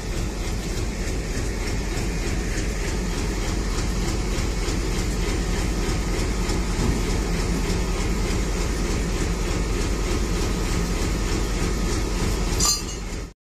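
Indian Railways passenger train running: a steady rumble and rattle of wheels and coaches on the track. The sound cuts off suddenly near the end.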